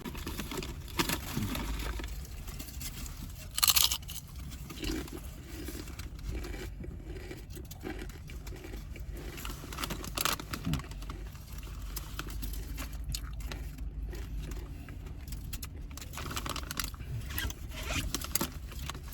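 Someone eating Buc-ee's potato chips: irregular crunching and chewing crackles, with one sharper crackle about three and a half seconds in.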